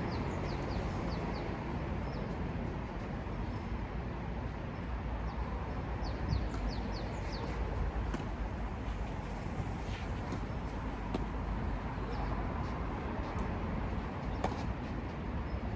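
Small birds chirping in short bursts of four or five quick high notes over a steady low outdoor rumble, with a few isolated sharp knocks.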